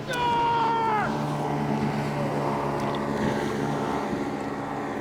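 Steady drone of a boat motor. At the start, a single held, pitched call about a second long drops in pitch as it ends.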